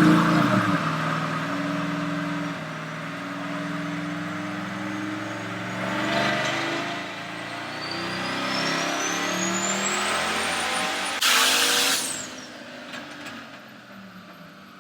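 Twin-turbo GMC 1500 engine running, its note loud at first and then easing off. A high turbo whistle climbs steadily in pitch for a few seconds. About eleven seconds in comes a short loud rush of air, and the whistle drops away as the engine quietens.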